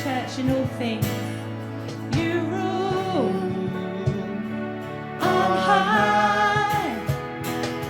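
Contemporary Christian worship song: sung melody over a steady instrumental backing.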